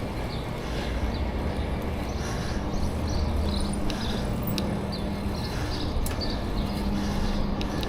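Riding noise from a bicycle on a paved path: wind on the neck-mounted camera's microphone and tyre rumble, with a faint low hum that comes and goes. Short high chirps and a few light ticks are scattered through.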